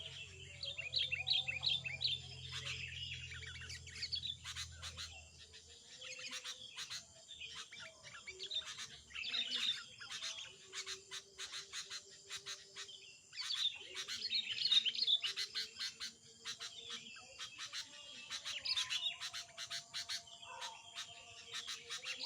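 Small songbirds chirping and trilling in quick runs of high notes, coming and going in busy clusters with short lulls between them. A faint low hum underneath stops about five seconds in.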